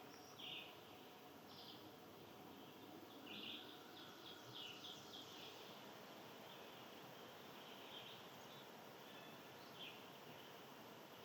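Faint short bird chirps, a handful scattered through with a small flurry about three to five seconds in, over a soft steady background hiss.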